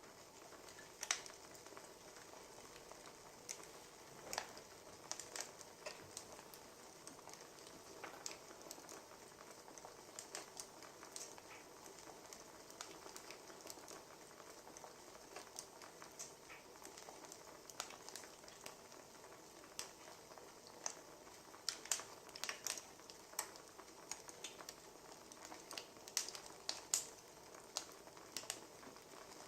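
Wood fire crackling: irregular sharp pops and snaps over a low steady hiss, coming more often near the end.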